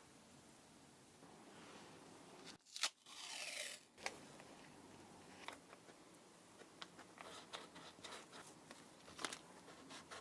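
Close handling noises of sneaker repair work: a sharp click about three seconds in, a brief tearing, scraping sound falling in pitch, then scattered light scrapes and taps.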